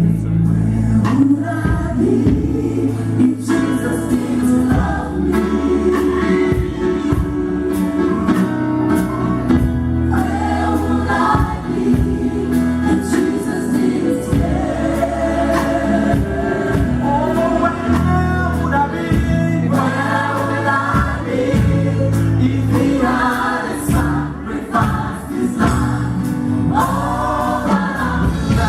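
Contemporary gospel music: a choir of several voices singing over a band with a steady bass line.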